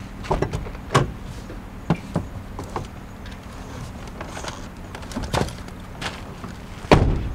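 SsangYong Actyon SUV engine idling with a steady low hum, under scattered clicks and knocks; the loudest knock comes near the end.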